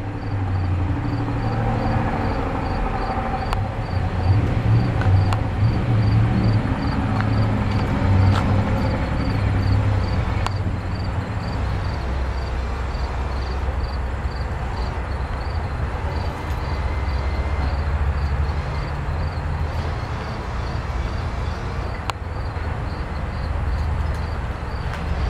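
A GM Performance Parts 350 cubic-inch H.O. crate V8 idling with a steady low rumble.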